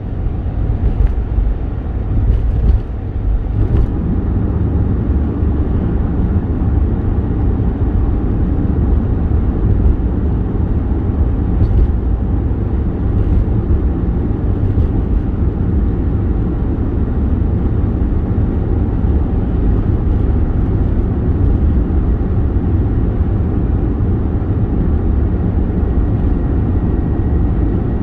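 Car driving: a steady, loud low rumble of engine and road noise that builds over the first few seconds, then holds level.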